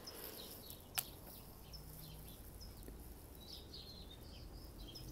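Faint background birdsong: scattered small chirps and twitters. One sharp click about a second in.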